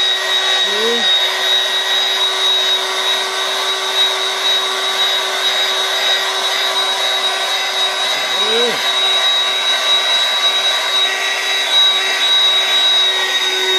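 Dirt Devil vacuum cleaner running steadily: a constant motor whine at one even pitch over the hiss of air being drawn through the nozzle.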